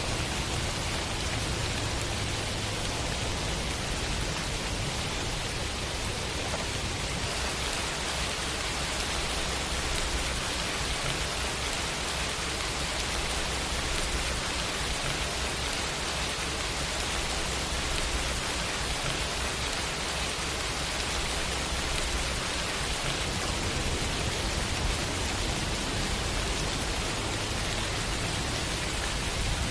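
Steady rain, an even hiss that does not let up, with a low rumble underneath.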